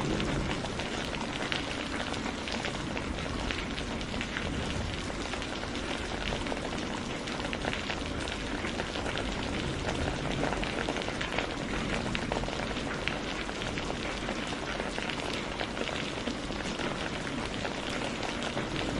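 Heavy rain falling steadily: a dense, even hiss full of small drop impacts.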